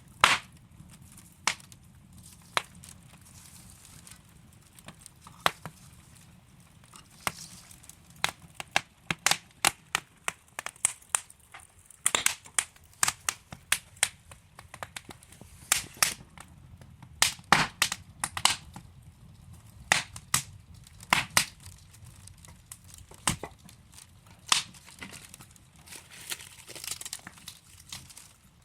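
Wood fire burning in a fireplace, burning logs crackling and popping irregularly over a soft low rumble of the flames. The pops are sparse at first and come in quicker clusters through the middle.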